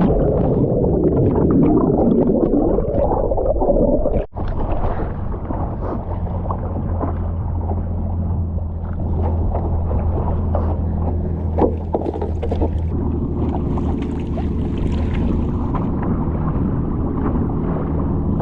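Wind and water rushing loudly on a stand-up paddleboarder's camera microphone, with splashes and knocks. After a brief dropout about four seconds in, a steady low hum runs underneath.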